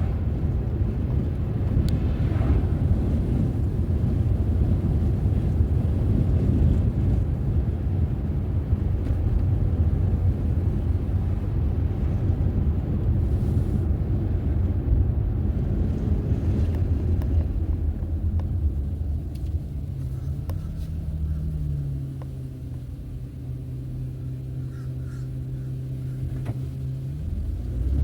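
Car driving: a steady low road and engine rumble. About two-thirds of the way through it quietens to a steady engine hum for several seconds, then picks up again near the end.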